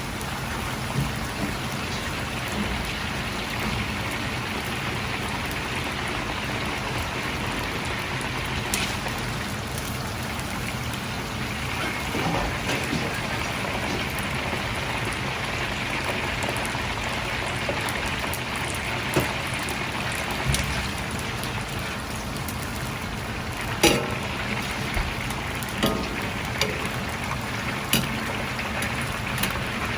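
Chicken pieces sizzling in a hot wok as they are tossed with a spicy chili powder, with occasional sharp knocks of the metal ladle against the wok.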